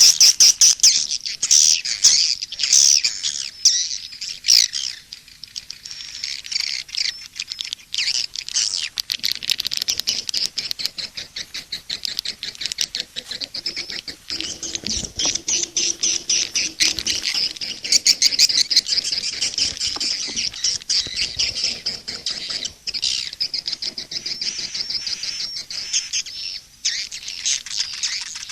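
Swiftlet calls: dense, continuous high-pitched twittering and clicking chirps from many birds at once. This is a recorded 'SP' (suara panggil, calling sound) mix of the kind played from swiftlet houses to lure edible-nest swiftlets.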